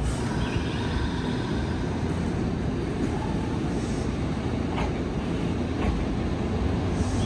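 Nankai 6000 series stainless-steel electric commuter train in motion: a steady low rumble of wheels and running gear, with two brief clacks a little after halfway.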